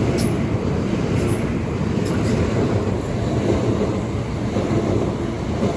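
A Class 375 Electrostar electric multiple unit passing close by: a steady rumble of wheels on rail, with a few short sharp clicks in the first half.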